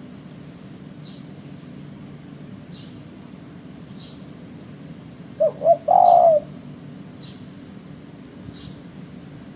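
Spotted dove (tekukur) giving one cooing phrase about halfway through: two short notes, then a longer rolling coo. Faint high chirps from small birds come about once a second over a steady low hum.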